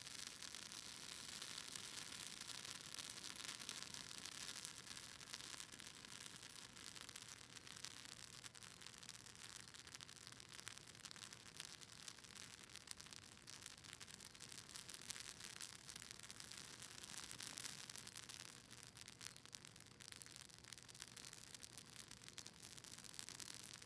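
Campfire of cedar leaves and maple wood crackling: a faint, dense run of fine crackles over a soft hiss, with no big pops.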